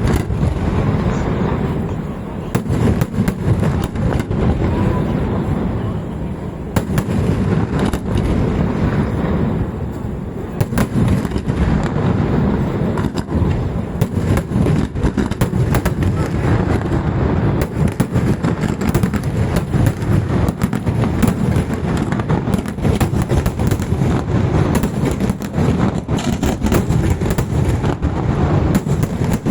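Fireworks going off in a dense, continuous barrage: rapid sharp bangs one after another over a heavy, unbroken low rumble of overlapping explosions.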